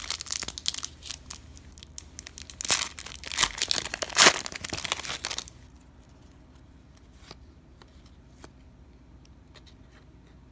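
A trading-card pack wrapper being torn open and crinkled by hand, dense crackling for about five seconds, loudest near the middle, then stopping; after that only a few faint ticks of cards being handled.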